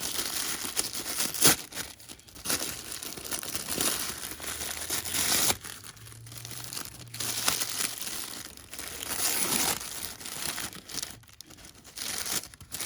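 Wrapping paper being crinkled and torn as a small wrapped gift is unwrapped by hand, with uneven rustles and sharp crackles.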